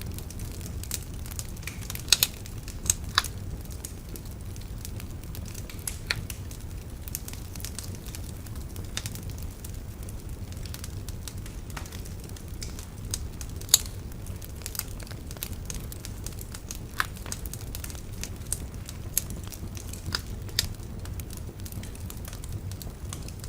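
Wood fire burning steadily with a low rumble, crackling with scattered sharp pops, a few of them louder, such as two close together about two seconds in.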